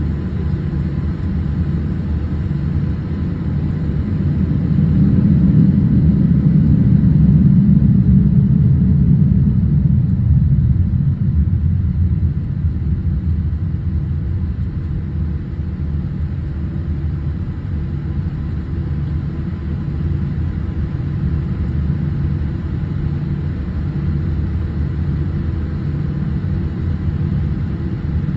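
Cabin noise of a Boeing 787 airliner on the move: a steady low rumble from its engines and airframe. It swells louder a few seconds in, for about six seconds, then settles back to a steady drone.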